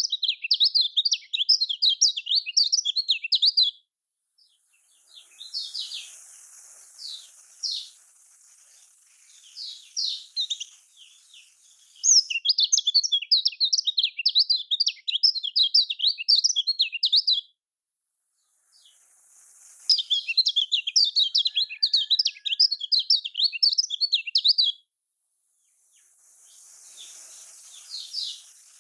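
Kecial kuning (yellow white-eye) singing: three long runs of rapid, high, wavering chattering notes, with scattered single chirps between the runs.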